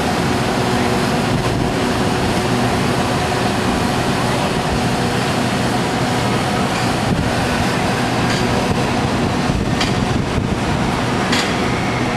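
An engine or motor running steadily and loudly, a constant hum over dense mechanical noise, with a few sharp clicks in the later seconds.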